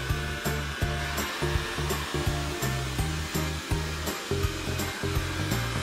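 Background music with a steady beat and a walking bass line, over the steady whir of a Xiaomi Mi robot vacuum's suction fan as it cleans the floor.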